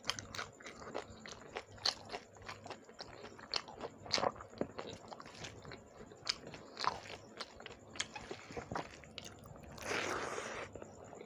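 Close-miked mouth sounds of chewing and biting shrimp curry with rice, with many short crunchy clicks. Near the end, a louder wet, noisy smack lasting under a second comes as a handful of rice goes into the mouth.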